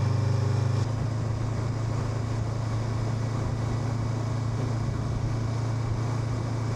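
Honda NX500's parallel-twin engine running steadily under a rider, easing off slightly about a second in and then holding an even note.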